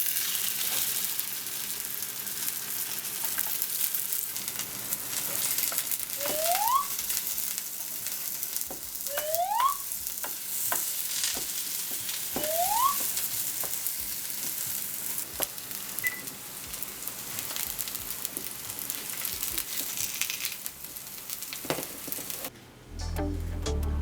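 Potato cheese pancake sizzling in a frying pan with a steady hiss. Three short rising squeaks come a few seconds apart, about a quarter of the way in, just before the middle and just after it. The sizzling stops shortly before the end.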